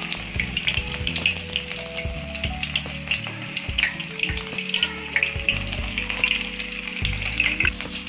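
Egg-coated chicken piece frying in hot oil in a pan, sizzling with a dense, steady crackle of popping bubbles.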